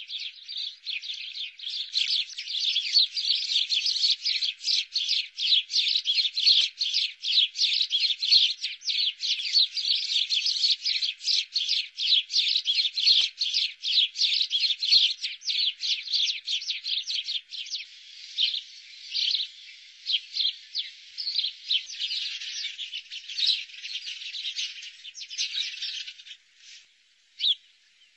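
House sparrows chirping, a rapid unbroken string of short, high chirps several to the second; after about two-thirds of the way the chirping thins to scattered, separate chirps.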